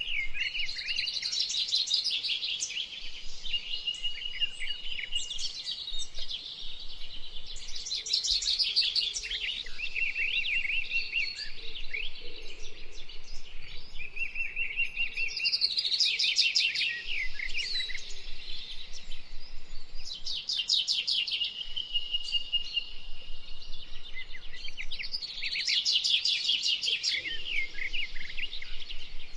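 Several songbirds singing. One bird repeats a loud, fast, trilling song about every five seconds over quieter calls and notes from others.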